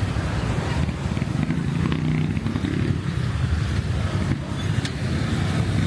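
Street traffic, with a motorcycle engine running close to the microphone; its low hum shifts slightly in pitch.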